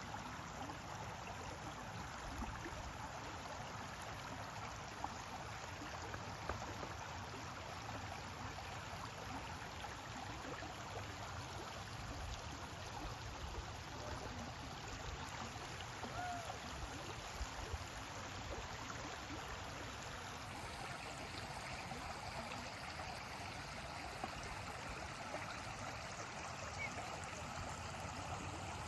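Stream water flowing steadily, a constant rush with a faint trickle.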